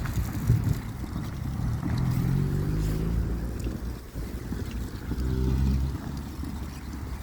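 Low engine rumble with wind buffeting the microphone. A pitched engine hum swells twice, about two seconds in and again about five seconds in.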